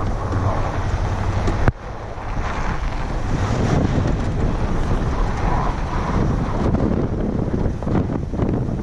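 Pickup truck driving through snow: engine and driving noise running steadily, with wind buffeting the microphone. The sound drops out abruptly for a moment under two seconds in, then carries on.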